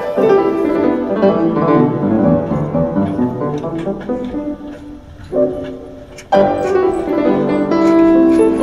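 Piano music; it dies down low about five seconds in, then a new passage comes in abruptly about a second later.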